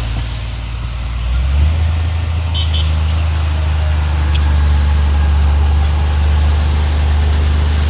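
Heavy diesel engine of earthmoving machinery running. About a second and a half in, it rises in pitch and gets louder as it revs up, then holds steady.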